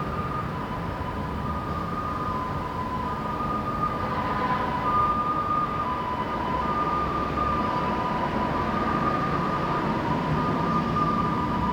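Small metal wind chime ringing continuously in the breeze, mainly two close pitches that keep being struck again, over a steady low hum of city traffic.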